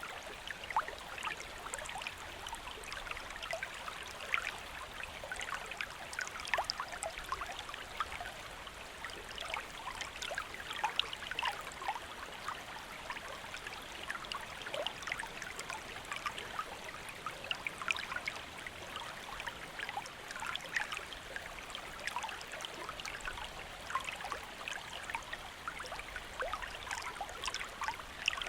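River water flowing steadily: an even rush with constant small gurgles and splashes.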